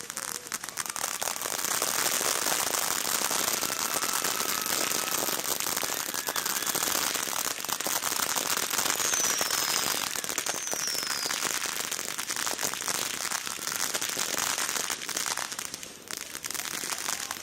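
Fireworks crackling continuously: a dense run of small crackling pops over a hissing spray, with two short falling whistles about nine and ten and a half seconds in. The crackle eases off near the end.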